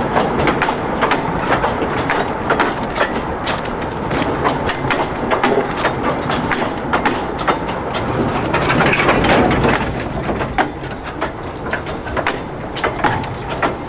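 A narrow-gauge train rolling along, its wagon wheels clicking and knocking irregularly over the rail joints above a steady rumble, which swells louder for a moment about nine seconds in.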